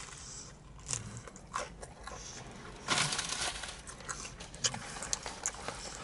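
Close-up chewing of a bite of reheated pizza with a crisp crust: crunching and wet mouth clicks, with a louder crunch about three seconds in.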